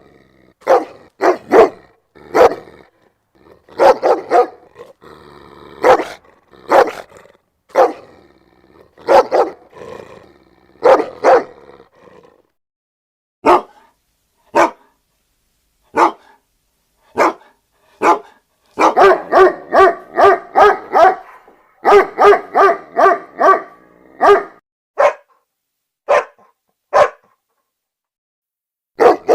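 Dog barking: a long string of single barks with short gaps between them, and a quicker run of barks about two-thirds of the way through.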